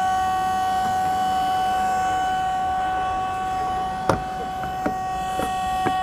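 Steady high-pitched electrical whine of several level tones from the electric truck's fast-charging equipment while the charge is being stopped, with four sharp clicks in the second half.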